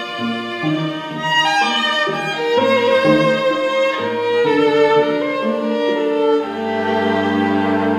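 String music, led by a violin, playing a melody over a lower moving string part, then settling into a long held chord about six and a half seconds in.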